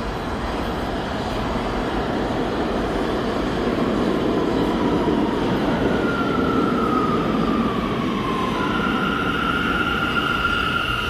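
New York City subway train in the station, a steady rumble of wheels on rails that grows louder about four seconds in. From about six seconds a whine falls in pitch, then gives way to a steady high squeal near the end.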